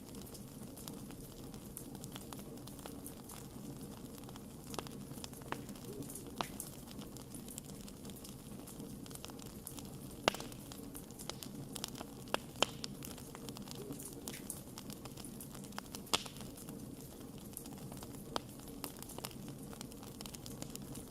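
Campfire burning with a steady low hiss and irregular crackles and pops, a few sharper pops about halfway through.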